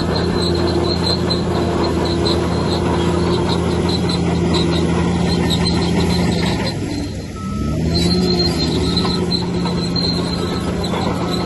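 Bulldozer's diesel engine running steadily, with repeated high squeaks from its steel tracks. About seven seconds in, the engine note drops briefly, then picks back up.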